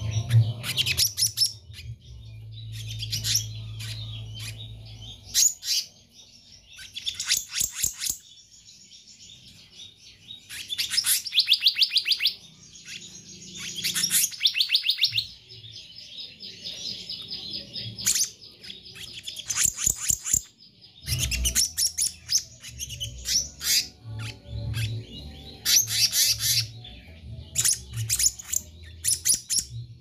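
Black-naped monarch (kehicap ranting) singing: repeated bursts of rapid, high chattering trills, each a second or two long and a few seconds apart, with a low hum in the background at times.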